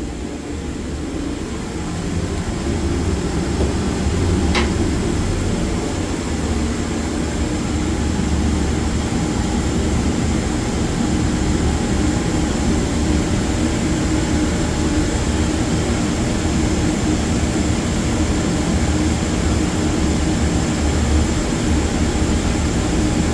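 Oil-fired boiler burner running steadily: a low rumble of flame and blower with a hum, growing slightly louder over the first few seconds. A brief high tone sounds once about four and a half seconds in.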